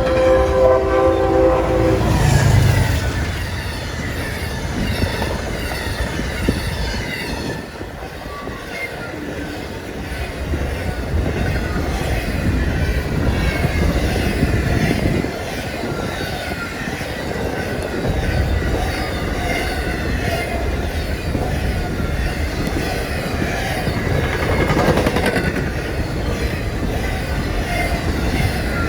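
A locomotive horn sounds a chord that cuts off about two seconds in. Trains then pass at speed, with a steady rumble and the clatter of wheels over the rails, briefly quieter about eight seconds in.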